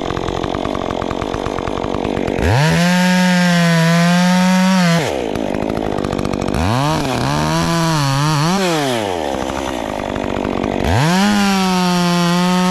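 Two-stroke chainsaw idling, then run up to full throttle and held there for a few seconds while cutting firewood. It is blipped up and down several times, dropped back to idle, and run up to full throttle again near the end.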